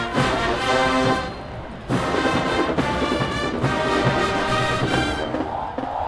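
Marching band brass section playing loud held chords. It breaks off briefly after about a second and comes back in at full volume about two seconds in.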